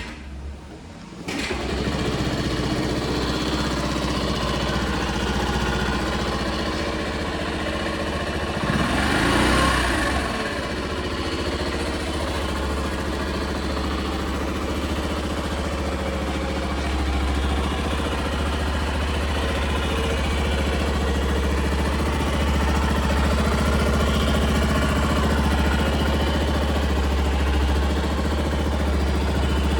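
Honda Little Cub's 50 cc four-stroke single-cylinder engine starting about a second in, then idling steadily. It gets one brief rev about nine seconds in.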